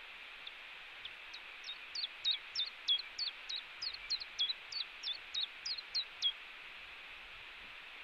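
A bird singing a run of about sixteen short, high notes, each sliding down in pitch, about three a second, that stops about six seconds in. Steady hiss lies underneath.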